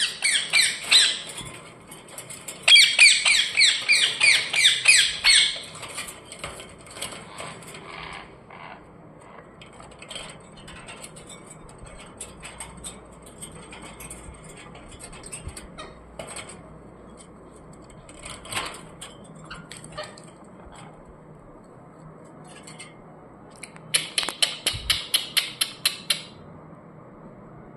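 Pet parrots squawking in rapid runs of harsh, high calls, about five a second: a short run at the start, a longer one a few seconds in, and another near the end, with faint scattered chirps between.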